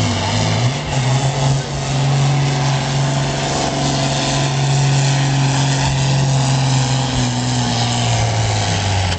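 Hot farm class pulling tractor's engine at full throttle on a pull down the track; its pitch steps up a little under a second in and then holds steady.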